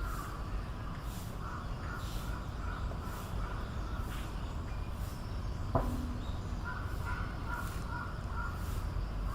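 An animal calling in two runs of short repeated notes, the second run near the end, with a single sharp click in between, over a steady low background rumble.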